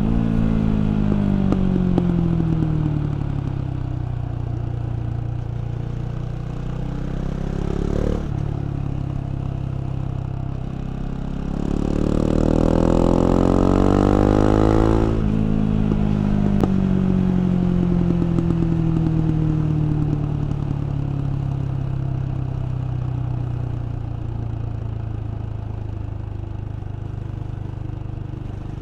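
KTM 690 Duke's LC4 single-cylinder engine on a ridden bike, with no wind noise. Engine speed falls off at first and then holds fairly steady. Around the middle it rises hard and loud under throttle for about three seconds, cuts off sharply, and winds down slowly on the overrun through the second half.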